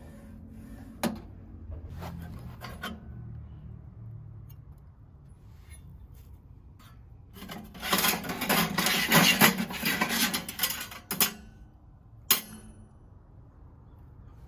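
Unboxing a cheap wood-burning stove: a few clicks and knocks, then about four seconds of dense scraping and rubbing of parts and packaging being handled, and one sharp knock about three-quarters of the way through.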